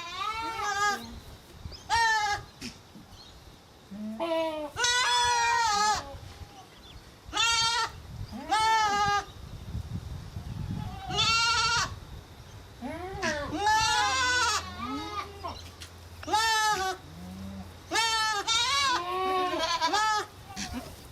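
Goats bleating again and again: a dozen or so quavering calls, a second or so each, some overlapping as more than one goat calls at once.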